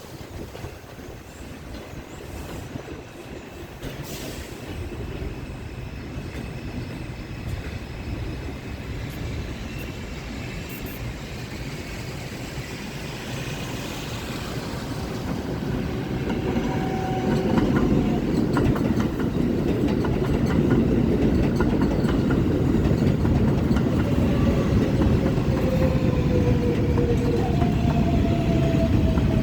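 An R142-type New York subway train pulling into an elevated station. Its rumble on the rails grows steadily louder and stays loud through the second half, with faint falling electric whines as it slows.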